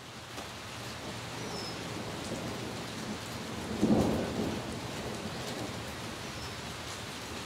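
Steady rain falling on leaves, with a brief louder rumble of thunder about four seconds in.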